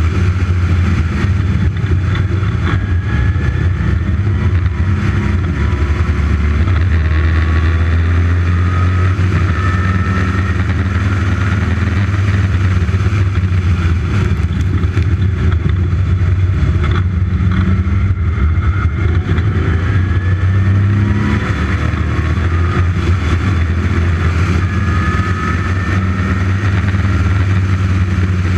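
Westfield's dry-sumped 5-litre V8 driven hard on track, heard from a camera on the car over a heavy low rumble. The engine note climbs several times as it pulls up through the revs.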